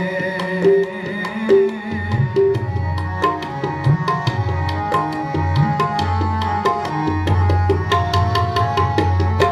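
Tabla playing an instrumental passage of Sikh kirtan: quick sharp strokes on the small drum and deep bass strokes on the bayan that bend in pitch, over held harmonium notes.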